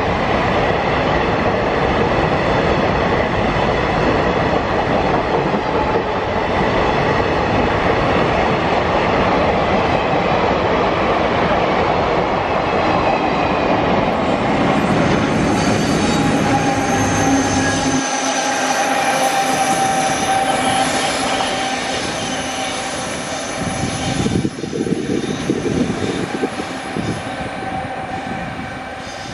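Passenger train's coaches rolling past at close range, wheels rumbling and clacking on the rails. After about 18 seconds the rear of the train heads away on a curve into a tunnel with wheel squeal, and the sound fades near the end.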